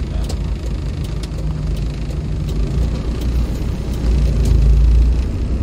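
Isuzu Panther diesel engine and road noise from inside the cabin while driving, a steady low rumble that grows louder about four seconds in.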